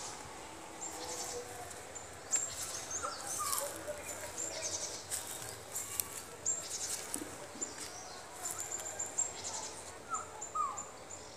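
Several birds chirping, with many short, high chirps repeated throughout. Pairs of lower, falling whistled notes come about three seconds in and again near the end.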